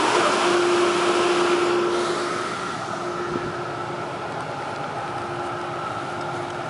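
Steady mechanical hum of car wash machinery and a vehicle with a rushing, fan-like air noise; the rush eases about two seconds in while the hum carries on.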